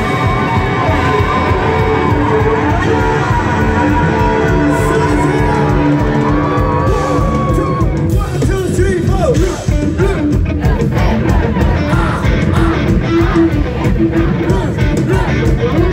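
Punk rock band playing live, with loud electric guitars, bass and drums and vocals over them. Near the end there is a brief dip, after which the drums pound on a harder beat.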